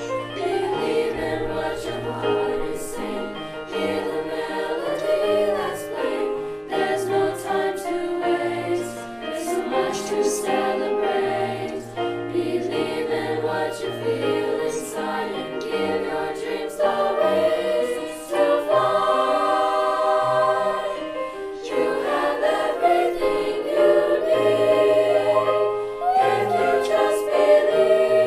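A school choir singing a holiday piece in several parts, with sustained sung notes over low notes that move in steps.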